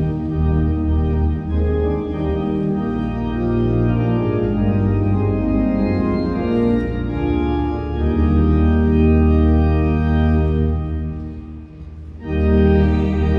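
Organ playing a hymn tune in full sustained chords: the introduction to the closing hymn. The chords change every second or so, ease off briefly near the end, then come back loud.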